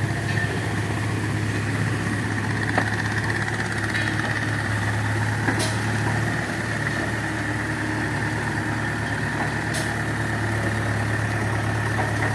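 Heavy diesel engine idling steadily, with a few faint clicks over the top.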